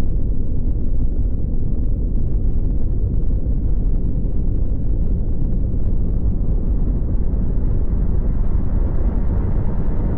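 A steady, deep rumbling noise with no distinct knocks or changes.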